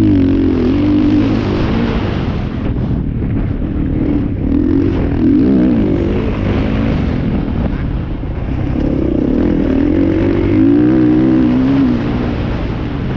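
Motocross dirt bikes racing, their engines revving up and down as they run past, with several passes rising and fading.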